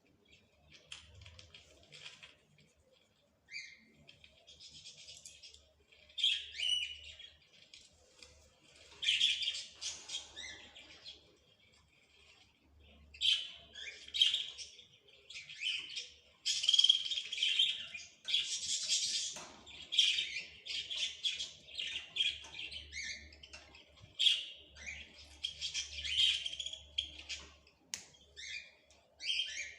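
Small birds chirping and twittering in quick, overlapping bursts of high notes, with hardly a gap.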